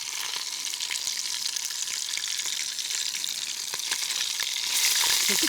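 Fish frying in hot beef tallow: a steady sizzle with crackling pops, getting louder near the end.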